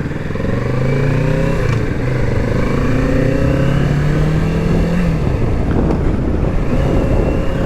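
Kawasaki Z650 parallel-twin engine pulling under acceleration. The revs climb, drop at a gear change about two seconds in, and climb again until about five seconds in, then settle.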